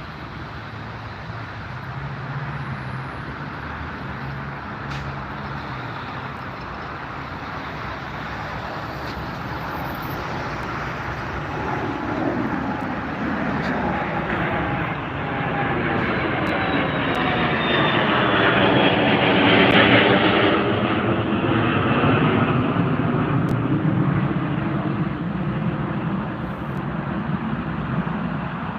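Aircraft taking off: engine noise builds steadily, peaks about two-thirds of the way through as the plane passes closest, with a high whine that falls in pitch, then eases off.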